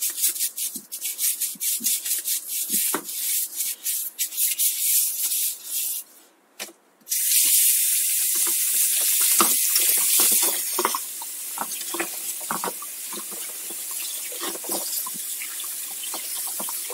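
A brush scrubbing greasy bike drivetrain parts in quick strokes, cleaned with dishwashing liquid as a degreaser. After a brief pause, water runs in a steady hiss, louder for the first few seconds and then softer.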